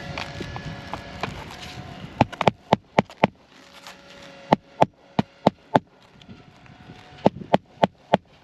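Hammer driving roofing nails back into asphalt shingles: three runs of about five sharp strikes each, roughly three a second, starting about two seconds in.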